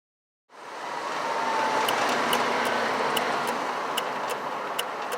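Vehicle driving over a rough road: steady road and tyre rumble that starts about half a second in, with sharp rattling clicks at uneven intervals.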